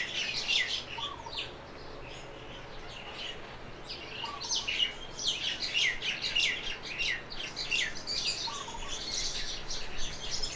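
Birds chirping: quick, high, downward-sliding chirps in dense bouts, quieter for a couple of seconds early on and then busy again, with a few fainter, lower short calls now and then.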